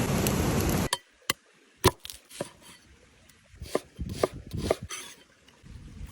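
Knife chopping on a cutting board during food preparation: single sharp strikes spaced irregularly, with a quick run of several strikes about four seconds in. A steady rushing noise before the chopping cuts off abruptly about a second in.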